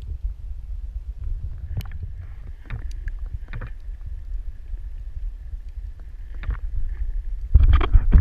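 Underwater ambience as a submerged camera hears it: a steady low rumble with scattered clicks and a faint steady whine through the middle, then a louder rush of bubbles near the end.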